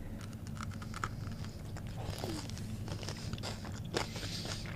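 Close-miked chewing of a chocolate, with small wet clicks and light crunches from the mouth.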